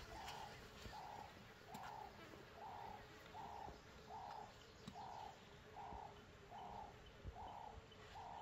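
A bird calling faintly in a steady, unbroken series of short, evenly spaced notes, a little more than one a second.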